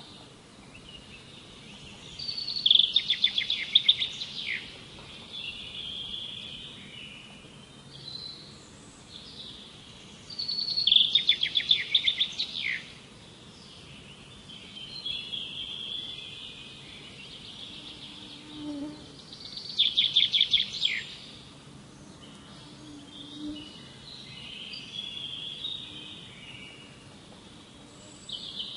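Songbird singing: a loud, rapid trilled song phrase repeats three times, about eight to nine seconds apart, with softer chirps and calls between.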